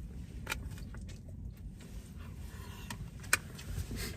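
Low steady rumble of a car's interior, with a few short clicks and rustles, the loudest about three seconds in.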